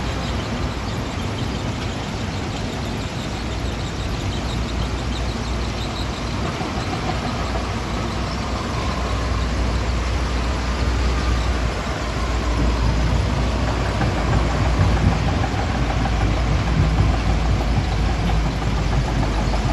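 Heavy diesel quarry machinery running steadily, a deep engine rumble under a broad mechanical grinding noise, growing somewhat louder about halfway through.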